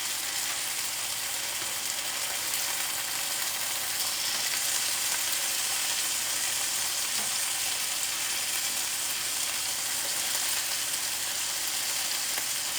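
Chicken tenderloins in olive oil frying in a skillet: a steady sizzle with light crackling. The oil is hot enough to spit and spatter.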